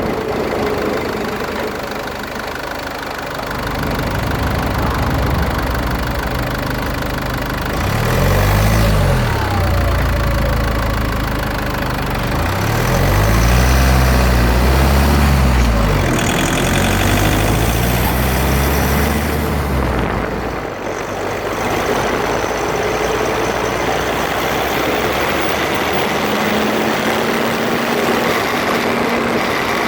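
Drivetrain and road noise from underneath a Land Rover Freelander 2, picked up right beside the front differential while the car is driven to catch a grinding noise. Low-pitched tones rise and fall several times midway through, and a steady hum sets in near the end.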